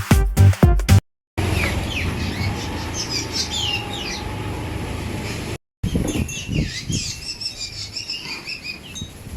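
Birds chirping with many short, quick calls, some sliding downward, over a steady low background rumble. Electronic dance music plays for the first second, then cuts off.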